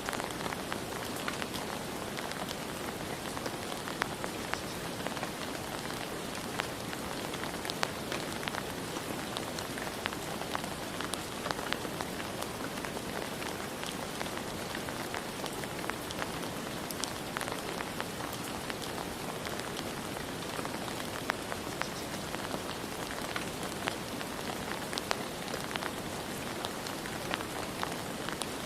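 Steady rain falling, an even hiss with many separate drops ticking throughout.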